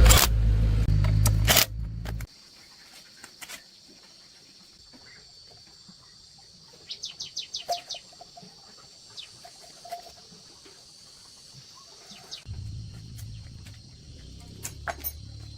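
A loud low rumble cuts off abruptly about two seconds in, leaving quiet outdoor ambience: a faint steady high insect drone and a quick run of bird chirps around the middle. A low rumble comes back in near the end.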